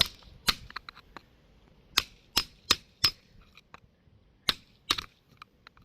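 A hammer tapping on a geode to crack it open: sharp hard knocks of metal on rock at an irregular pace, about eight louder strikes with lighter clicks between.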